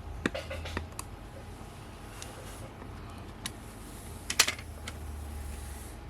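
Small hard clicks and taps of tools and parts being handled while a camera zoom lens is taken apart: a quick run of clicks near the start, single ticks between, and the loudest cluster of clicks about four and a half seconds in, over a low steady hum.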